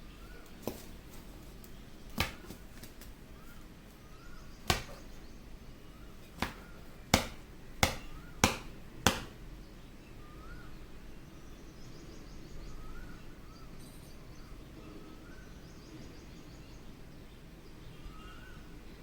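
Ringneck parrot tapping its beak against a mirror: about eight sharp, uneven taps in the first nine seconds, then only soft, faint chirps for the rest.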